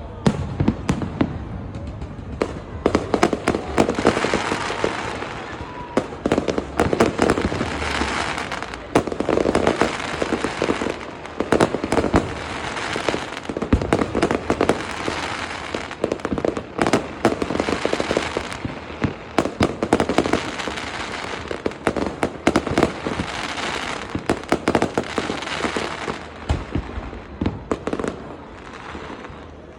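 Fireworks display: a dense run of bangs and crackling from bursting aerial shells, easing off briefly near the end.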